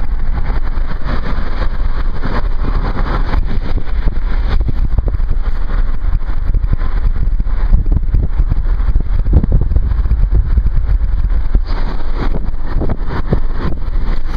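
Steady loud vehicle rumble and rushing noise, like a car on the move.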